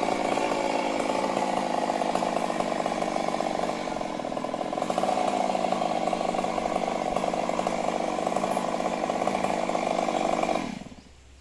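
Stihl MS 382 two-stroke chainsaw running at high speed, dipping briefly about four seconds in, then cutting off suddenly near the end.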